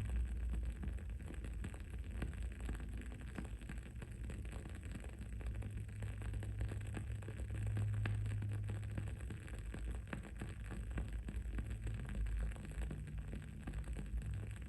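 Wood-wick candle crackling: a dense, irregular run of small pops and ticks over a steady low rumble of background noise.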